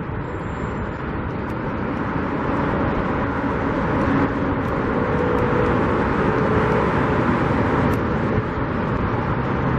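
Steady roar of road traffic going by, building louder over the first few seconds, then holding.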